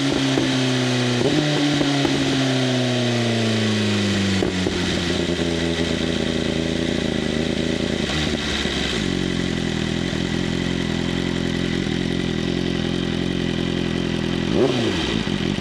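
BMW M1000RR inline-four motorcycle through an open-flap SC-Project CRT exhaust, slowing down: the engine note falls in steps over the first few seconds, then settles into a steady idle. Two short throttle blips near the end.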